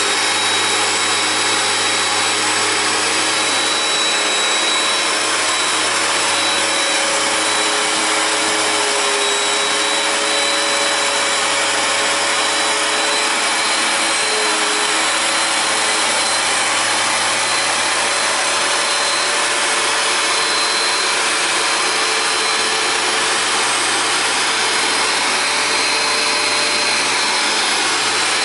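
Hoover Power Dash carpet cleaner running steadily: a loud motor rush with a high whine held throughout.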